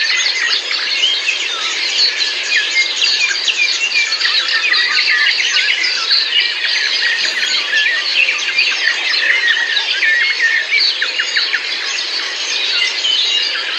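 A dense chorus of many birds, a constant tangle of overlapping high chirps, squeaky calls and short whistled notes with no break.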